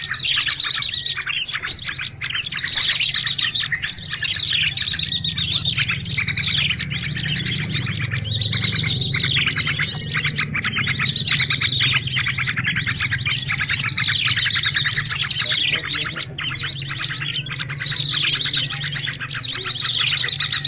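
Small songbirds chirping and twittering nonstop, several calling over one another with rapid high trills and quick down-slurred notes: a lure-call recording used to attract small birds.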